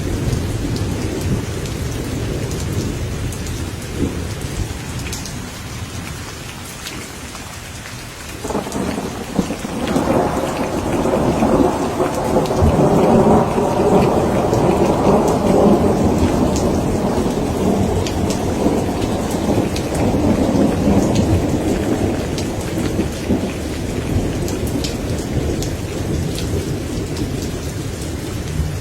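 Steady heavy rain with scattered sharp drips. About a third of the way in, a long roll of thunder rumbles in, swells for several seconds and slowly dies away.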